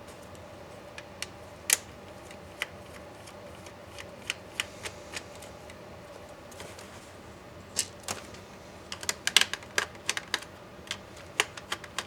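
Irregular sharp clicks and taps of small hard laptop parts and tools being handled during disassembly. They come sparsely at first, then in a quick run about eight to eleven seconds in, over a faint steady hum.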